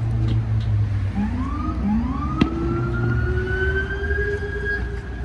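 A siren winding up, rising in pitch twice and levelling into a steady wail, with a single sharp crack a little before the middle.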